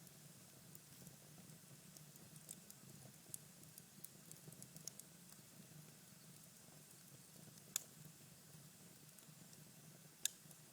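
Cherry-wood fire in a fireplace crackling faintly: scattered small ticks, with two sharper pops, one past the middle and one near the end.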